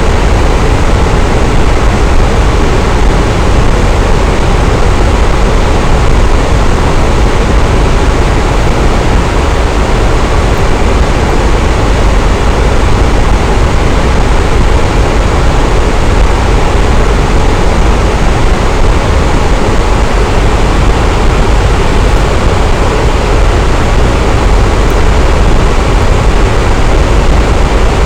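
Electric fan running steadily: a constant loud whoosh of moving air with a deep low hum underneath, unchanging throughout.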